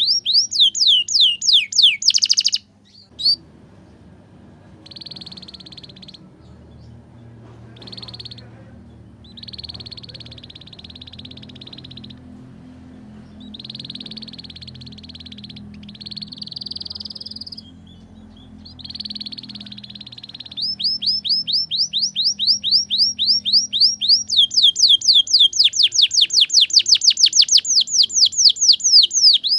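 Domestic canary singing: fast trills of rapidly repeated falling high notes, with softer buzzy rolling phrases in the middle before the loud trilling returns about 21 seconds in.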